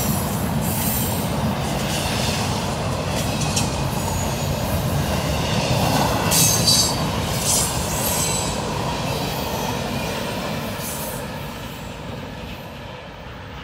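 Freight train of empty flat cars rolling past close by: a steady rumble and clatter of wheels on the rails, with brief high wheel squeals, loudest about six seconds in. The sound fades over the last few seconds as the end of the train goes by.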